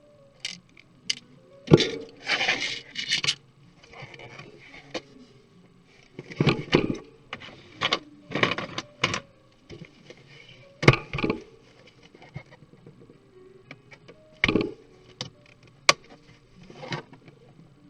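Laptop parts being handled and pried apart: scattered clicks, knocks and short scrapes of plastic and small hardware, with quiet gaps between them.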